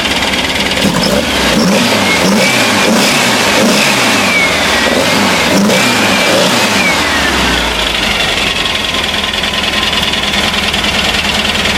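A VW 2110cc air-cooled flat-four with dual Dellorto 44 carburettors being revved in a series of quick throttle blips, then settling back to a steady idle about seven seconds in.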